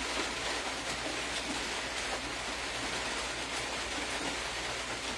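Steady hiss of background noise with faint scattered ticks.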